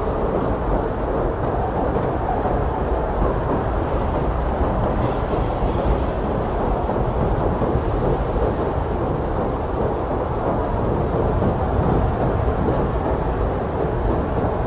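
Blizzard wind blowing steadily, a dense, deep rush of noise that stays even throughout with no single gust standing out.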